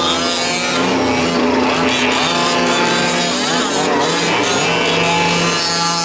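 Several 1/5-scale gas RC trucks' small two-stroke engines buzzing and revving around the track, their pitches rising and falling as they throttle up and back off.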